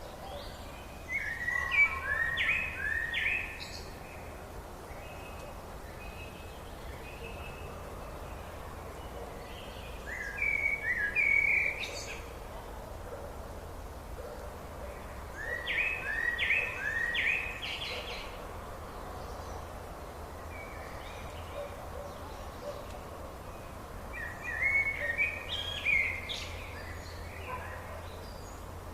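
A songbird singing four short phrases of quick, falling notes, with pauses of several seconds between them, over a steady low hum.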